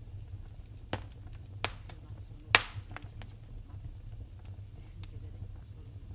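Wood fire in a fireplace crackling: a few sharp, irregular pops, the loudest about two and a half seconds in, over a low steady rumble of the burning.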